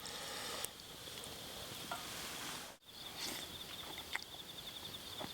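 An insect chirping in a steady, high, rapidly pulsing trill, which comes in after a brief cut about halfway through; before that, faint background hiss with a few soft clicks.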